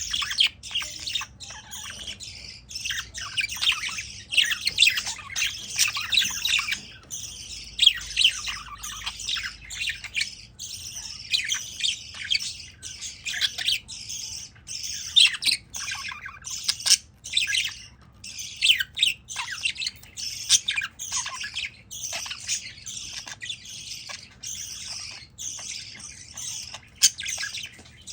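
Budgerigar chattering: a continuous stream of quick, high chirps, warbles and squawks with hardly a pause.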